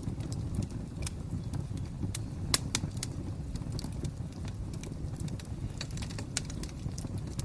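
Wood fire crackling: irregular sharp pops and snaps over a steady low rumble of the flames, with one louder pop about two and a half seconds in.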